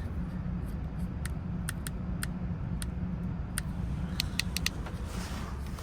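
Steady low idle of a BMW N55 turbocharged straight-six after the newly programmed key starts it, with scattered light clicks over it, including a quick run of four about four seconds in.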